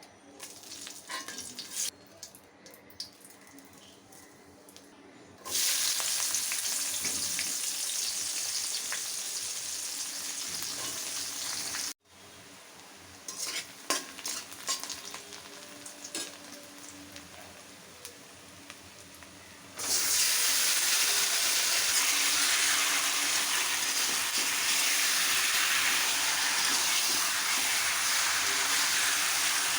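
Food frying in hot oil in a pan: a loud, even sizzle, with a spoon clinking and stirring against the pan. The sizzle starts suddenly about five seconds in, breaks off abruptly around twelve seconds, leaving only scattered clinks, and comes back around twenty seconds.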